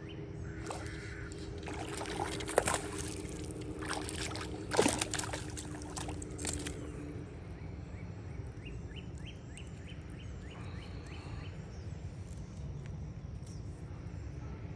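A hooked largemouth bass splashing and thrashing at the water's surface as it is reeled in and lifted out, with water sloshing. The splashes come in several sharp bursts, the loudest about two and a half and five seconds in, and die away after about seven seconds.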